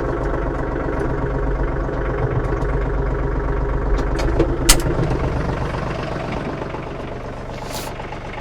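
A vehicle's engine running steadily, easing off slightly in level over the last couple of seconds. A single sharp click or knock comes about halfway through.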